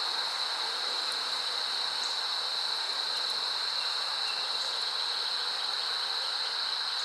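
Steady, high-pitched insect chorus, an unbroken trill over a faint hiss.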